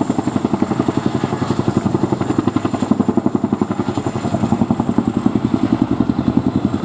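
RAF Boeing Chinook HC.2/4 tandem-rotor helicopter flying low, its rotor blades beating in a fast, even throb of about ten pulses a second, with a steady high whine above.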